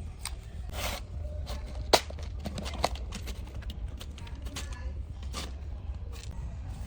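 Workshop handling noises: short scrapes and clicks of tools and parts being worked, with a sharp click about two seconds in and another soon after, over a low steady hum.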